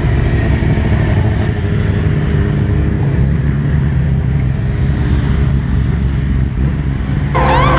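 Sport motorcycle engines idling steadily. Near the end a louder, higher sound with wavering pitch suddenly joins in.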